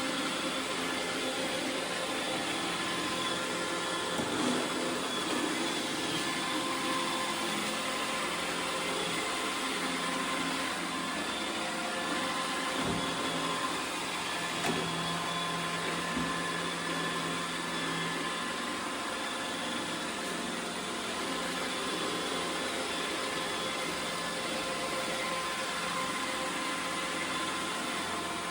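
iRobot Roomba 850 robot vacuum running, a steady motor and brush hum with a thin high whine, and a few faint bumps.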